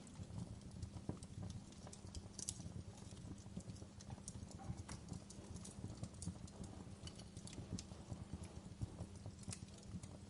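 Wood fire crackling: burning logs give off a low rumble with many small irregular snaps and pops, one sharper pop about two and a half seconds in.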